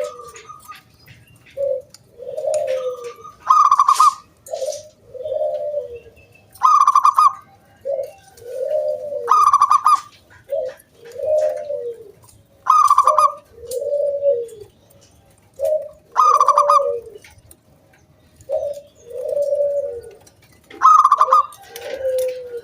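Zebra dove (perkutut) singing its cooing song over and over: each phrase opens with a loud, higher clear note and runs into a few lower, rolling coos, repeating roughly every three seconds.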